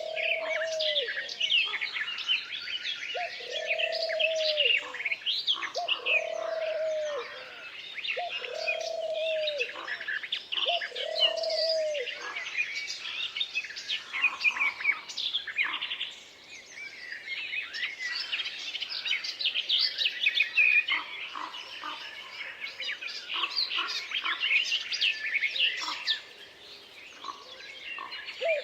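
Forest birdsong: many songbirds chirping and twittering together, with a low cooing call repeated five times, a couple of seconds apart, in the first half.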